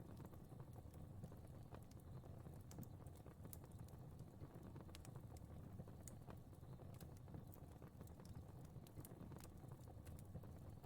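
Faint fireplace fire crackling: irregular sharp pops and snaps over a low, steady rumble of the flames.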